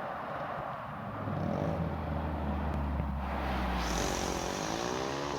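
A car engine running through a loud aftermarket exhaust, a low steady rumble that grows louder about a second in. Near the end a hiss joins and the engine note swells and wavers in pitch.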